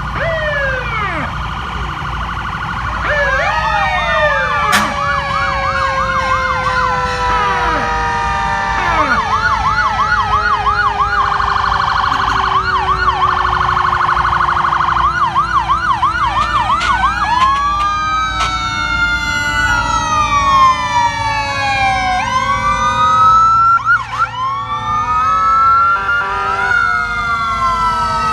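Several fire truck sirens sounding at once, overlapping wails and fast warbling yelps, with one long tone falling slowly throughout.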